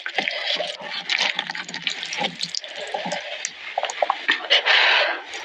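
Close, wet eating sounds of black bean noodles: irregular smacking and chewing clicks, with a longer slurp about four and a half seconds in.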